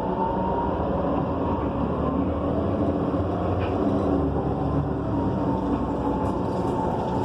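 Inside a 2015 Gillig BRT Plus transit bus under way: the Cummins Westport ISL G natural-gas engine and Allison B300R automatic transmission running steadily over road noise. A faint whine drifts slightly up and down in pitch.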